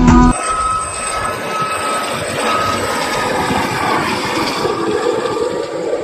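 Music cuts off a moment in, then the steady engine noise of an aircraft in flight, swelling slightly near the end.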